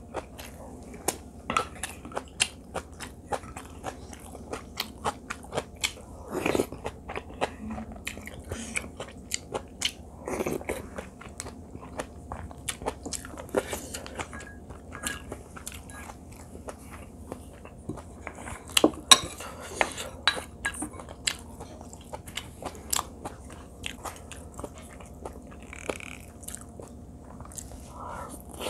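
Close-miked chewing and biting of rice mixed with seasoned greens (namul), many quick wet mouth clicks and crunches in an irregular run.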